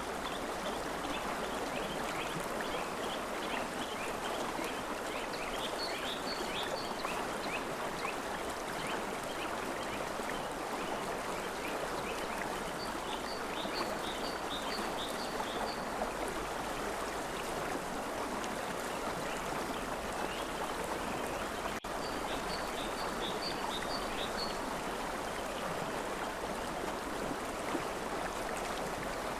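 River water flowing steadily, with a bird calling over it in three bouts of quick, repeated high notes.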